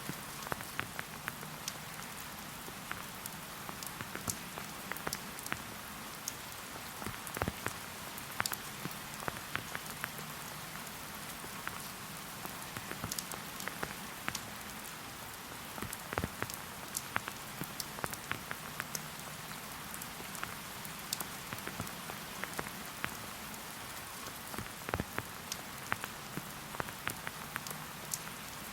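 Steady rain falling in a forest: an even hiss with many separate drops pattering sharply close by.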